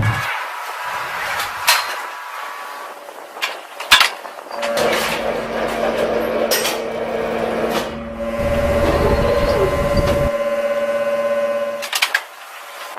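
Machinery humming with steady tones, broken by sharp metallic clanks and clicks; the sound changes abruptly several times.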